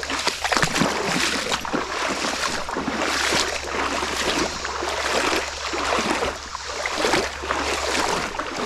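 Footsteps wading through shallow creek water, sloshing and splashing in an irregular rhythm of about one or two steps a second, over a steady low rumble.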